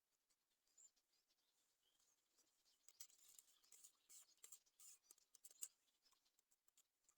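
Near silence, with faint scattered clicks and a soft rustle between about three and six seconds in.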